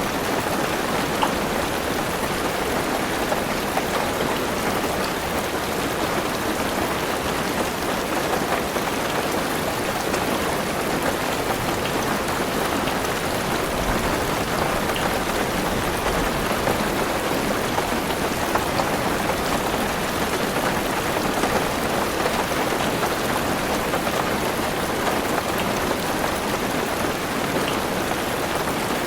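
Heavy rain drumming steadily on a car's roof and windows, heard from inside the car, with a scatter of individual drop ticks.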